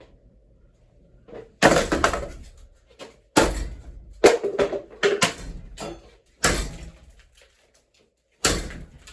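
About seven loud, irregularly spaced knocks and clatters, each dying away quickly: hard pieces of a wrecked ceiling fan and its broken particle-board blades banging and scattering.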